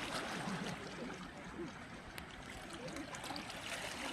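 Sea water washing and trickling along the shore, with faint distant voices and a few small clicks.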